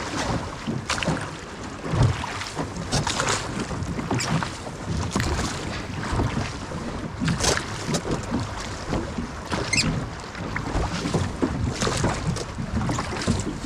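Water splashing and slapping irregularly against the hull of a small sailing dinghy being rowed through short surf waves. Oar strokes dip into the water, and wind buffets the microphone with a low rumble.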